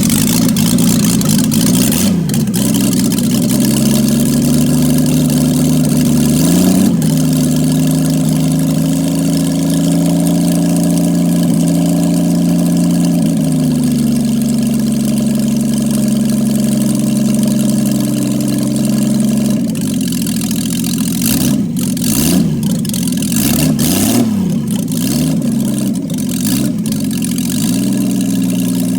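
Jaguar 2.4-litre XK straight-six engine running for the first time in many years. It settles into a steady idle with short blips of the throttle, then near the end is revved up and down several times in quick succession before it settles again.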